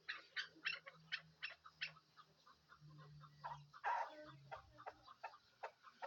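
Chukar partridge calling: a quick series of short clucking notes, two or three a second, with one louder call about four seconds in.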